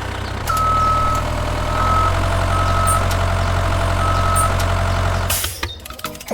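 A truck engine idles with a steady low hum that gets louder about half a second in. A high beep sounds four times at uneven intervals over it. Near the end the engine cuts off after a short burst of noise, and rattling, clicking sounds follow.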